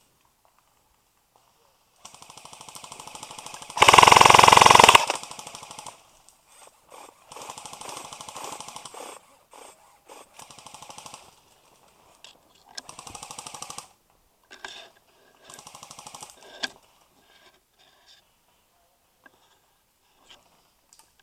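Airsoft electric guns (AEGs) firing full-auto in a string of rapid bursts, one to a few seconds each. The loudest burst comes about four seconds in, with a few single shots near the end.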